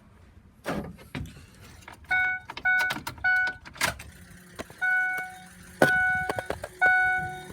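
A few sharp clicks and knocks, then the van's dashboard warning chime dinging over and over, at first in quick succession and then about once a second.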